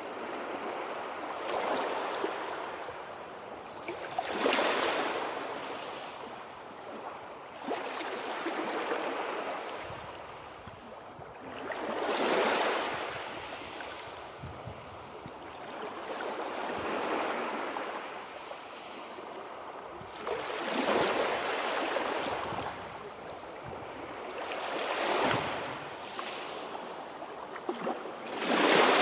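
Sea waves breaking and washing on the shore, one wave after another, each a rushing swell that rises and fades over a few seconds.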